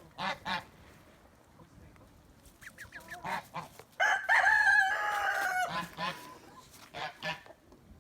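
Farmyard poultry calling: a few short, repeated honking calls, then one loud long call held for nearly two seconds, starting about four seconds in and falling slightly in pitch near its end, followed by more short calls.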